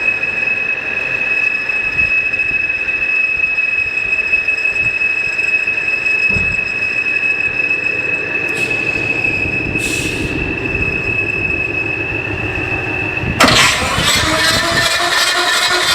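A prototype elliptical engine mechanism running with a steady high-pitched whine over a mechanical rumble. About thirteen seconds in, it changes abruptly to a louder, harsher running noise.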